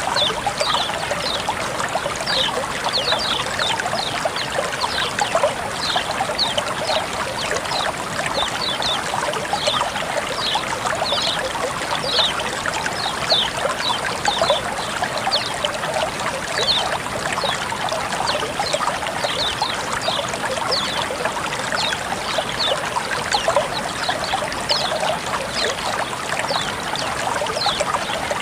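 Flowing water trickling and splashing steadily, with many small bright droplet splashes throughout.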